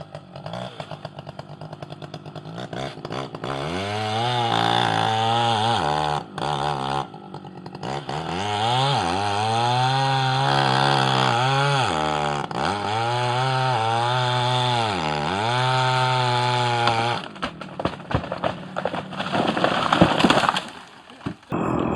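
Small two-stroke chainsaw engine revving up and down again and again, with a few brief cut-outs. Near the end it turns into a rougher, irregular stretch.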